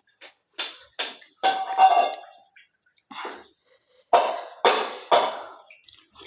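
Cutlery clinking and scraping against a dish, about seven separate strokes, several ringing briefly.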